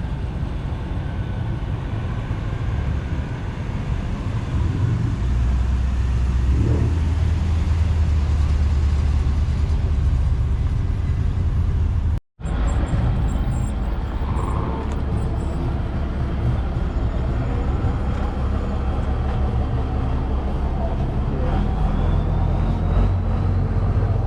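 Car engine running with a deep, steady low rumble, heavier for a few seconds early on. It breaks off for an instant about halfway through, then carries on.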